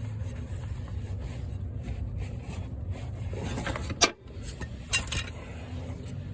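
Metal hand tools clinking and scraping, with a sharp clink about four seconds in and another a second later, over a steady low hum.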